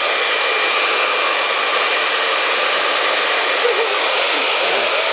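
Handheld hair dryer blowing steadily as a puppy is dried, a constant rush of air with a faint steady whine in it.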